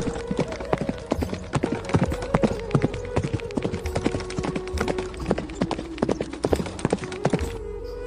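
Horse hooves clip-clopping in quick, irregular knocks, over soft background music; the hoof sounds stop about a second before the end, when a flute-like melody comes to the fore.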